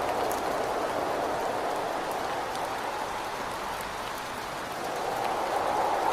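Steady rain and wind against a window: an even hiss with scattered drop ticks. The wind eases about halfway through and swells again near the end.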